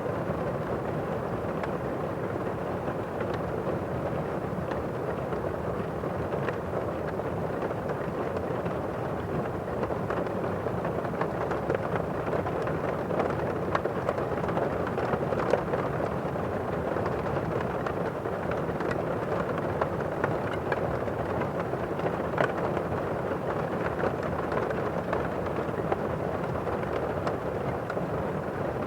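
Heavy rain drumming steadily on a roof, heard from indoors as a muffled, even rush, with scattered sharper drop impacts standing out.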